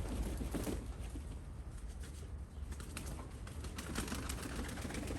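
Domestic pigeons cooing, with bursts of wing flapping strongest after about three seconds, over a steady low rumble.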